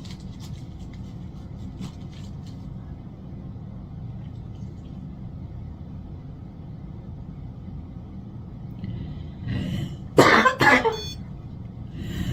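A woman coughs and clears her throat in a few short loud bursts about ten seconds in, over a steady low room hum.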